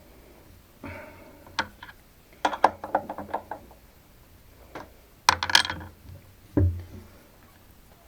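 Metal tools and parts being handled and set down on a workbench: several groups of sharp clinks, knocks and short clatters.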